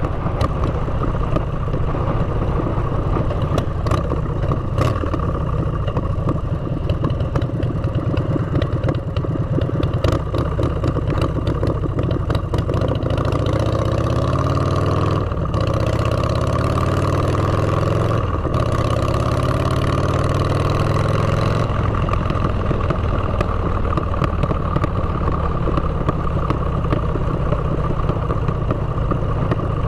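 Motorcycle engine heard through its exhaust pipes while riding. About halfway through it accelerates, the pitch climbing with two brief breaks for gear changes, then settles back to a steady cruise.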